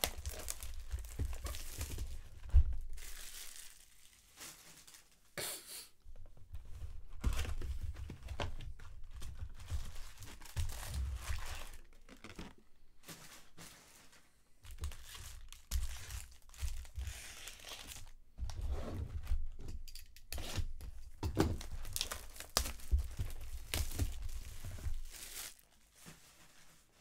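Trading card pack wrappers and box packaging torn open and crinkled by hand, in irregular bursts with low handling thumps.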